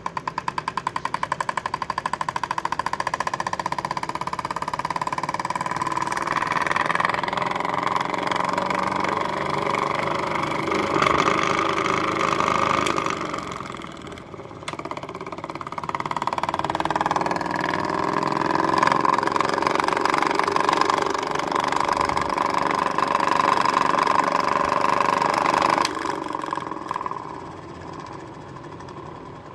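Homemade single-cylinder solenoid engine with a coat-hanger crankshaft running, a fast, even clatter of the solenoid firing that quickly gathers speed into a continuous rattle. It dips briefly about halfway through and slows and fades near the end.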